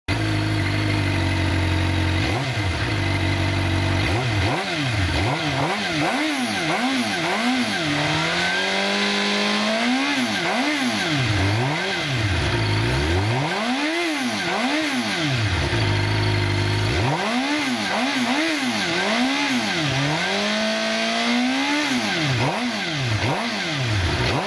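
Suzuki GSX-R 750 inline-four engine breathing through an Eagle slip-on exhaust, idling and then revved in a series of quick throttle blips that rise and fall back toward idle. Twice the revs climb and are held a little longer before dropping, and it settles back to a steady idle between runs of blips and near the end.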